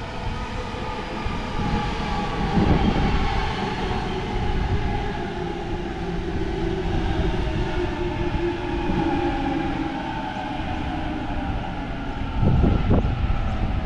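Sydney Trains B-set Waratah electric train pulling into the platform, its traction motors whining in several tones that fall slowly as it brakes, over the rumble of the wheels on the rails. There are two louder low bursts, one a few seconds in and one near the end.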